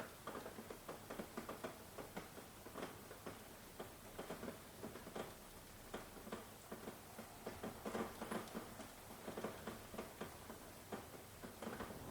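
Rain pattering: a dense, irregular run of separate drops ticking over a soft steady hiss, with no thunder.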